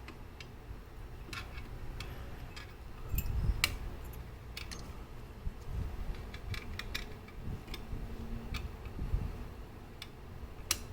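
Irregular light clicks and taps of small metal clock parts and tools being handled, with a few dull bumps.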